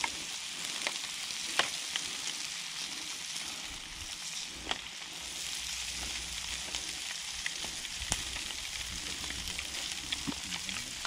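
Pigeon fillets sizzling on a grill over wood-fire embers: a steady hiss with scattered sharp pops and crackles.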